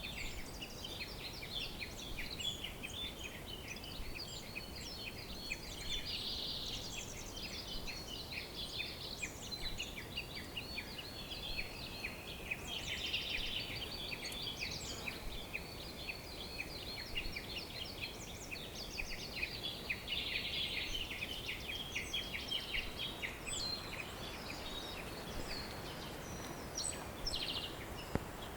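Many small birds singing together in a continuous chorus of overlapping chirps and fast trills, over a steady background hiss.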